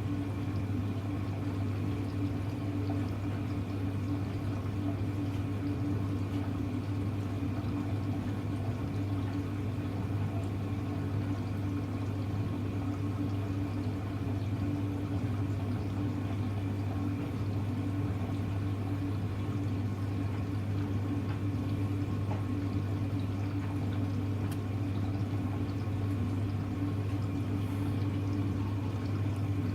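Hoover Electra front-loading washing machine running mid-cycle: water rushing through it over a steady low electrical hum.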